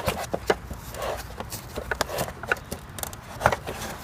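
Irregular clicks and knocks of hands handling the vacuum cleaner's plastic housing and brush roller while fitting a makeshift rubber belt cut from inner tube, with some soft rubbing between the knocks.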